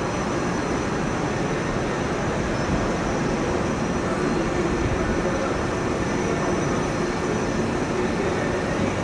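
Boeing 787-9's jet engines on approach: a steady rumble with a faint high whine over it.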